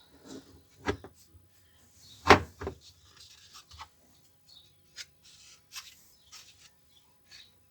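Scattered clicks and knocks of parts and tools being handled while a top-load washing machine is taken apart, the loudest knock about two seconds in.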